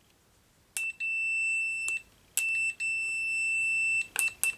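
A Harbor Freight digital multimeter's continuity beeper sounding as the probes make contact, signalling a closed circuit. A steady high-pitched beep lasts just over a second, then comes a short beep and a second long one, and three quick short beeps near the end, each starting with a click.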